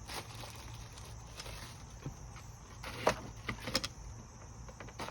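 Plastic pressure-washer parts and packaging being handled: a few sharp clicks and knocks about three seconds in and again just before four seconds, over a steady low hum.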